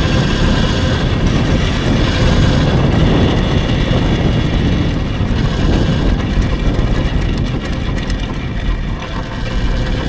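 Steady riding noise from an electric dirt bike on the move, dominated by a choppy low rush of wind buffeting the microphone.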